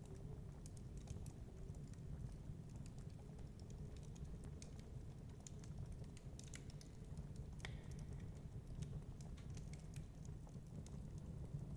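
Wood fire crackling, with small irregular snaps and pops, over the low steady rumble of storm wind.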